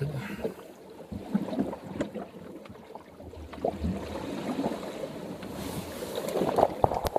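Sea water sloshing and slapping against the hull of an ocean rowing boat, with wind on the microphone and scattered knocks. It grows louder near the end.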